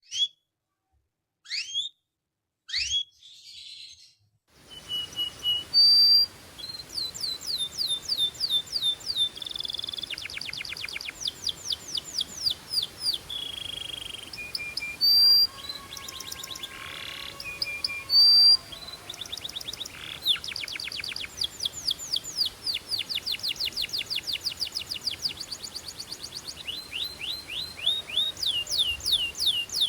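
Canary singing: a few separate chirps at first, then from about four seconds in a continuous song of rapid trills of falling notes, broken by held whistled tones.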